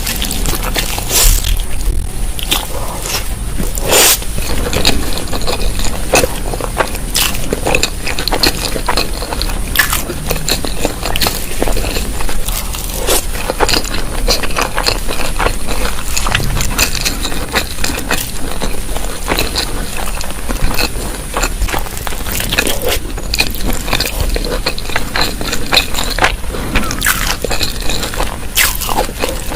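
Close-miked eating sounds of a person eating balado eggs in chilli sauce: wet chewing, lip smacks and frequent sharp mouth clicks, irregular and continuous.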